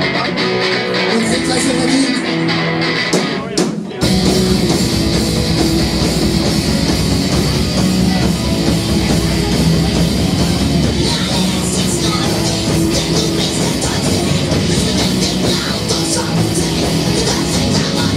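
A rock band playing a song live; after a thinner opening, the full band comes in about four seconds in and plays on loudly.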